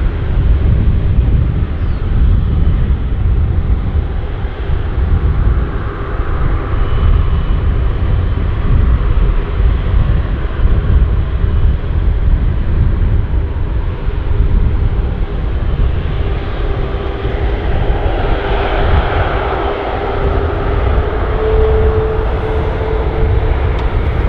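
Airliner jet engines rumbling steadily. A whine grows louder and rises slightly in pitch over the last several seconds.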